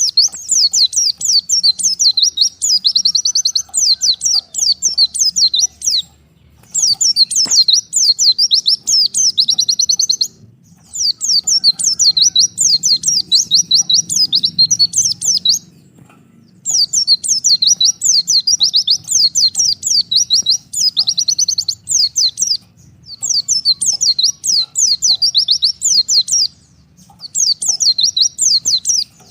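Pleci (white-eye) singing a rapid, high-pitched twittering song, a call to a rival. The song comes in loud phrases of a few seconds each, broken by short pauses.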